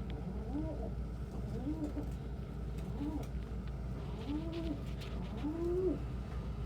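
Domestic pigeons cooing: a series of short coos, each rising and then falling in pitch, about one a second, over a steady low hum. A few faint ticks come about four to five seconds in.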